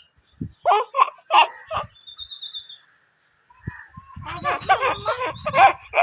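A young child laughing in short bursts, mixed with a pet parrot's calls, including a brief high whistle a little after two seconds.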